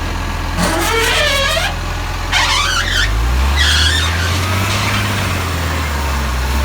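Garbage truck's diesel engine running, its note rising about halfway through as it picks up revs. Three short bursts of high-pitched, wavering squeals sound over it in the first two-thirds.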